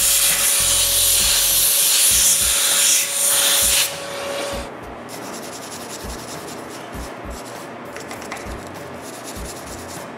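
Compressed-air blast hissing for about four seconds and cutting off, then a wire brush scrubbing in short rapid strokes to loosen gummed-up sawdust inside a table saw.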